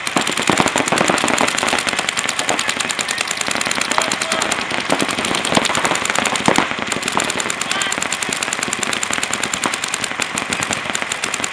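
Paintball markers firing rapid overlapping streams of shots, a dense rattle of many pops a second.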